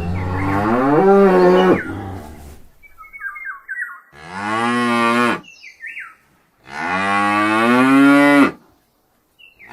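Domestic cow mooing: three long, drawn-out moos, with another beginning right at the end.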